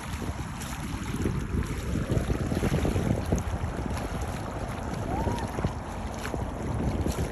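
Wind buffeting the microphone over the sound of sea waves, a steady rough rumble. A brief rising-then-falling tone comes about five seconds in.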